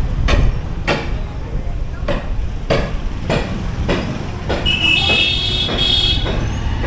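Motorcycle riding on a road: a steady low rumble of engine, road and wind, with repeated knocks and jolts. About four and a half seconds in comes a high, held tone lasting a second and a half.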